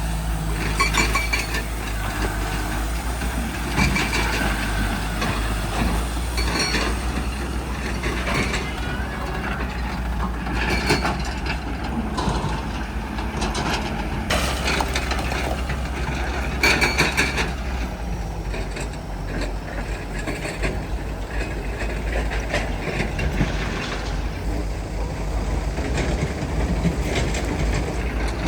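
Backhoe loader's diesel engine running steadily while it works, with metallic clanks and knocks from the bucket and arm every few seconds.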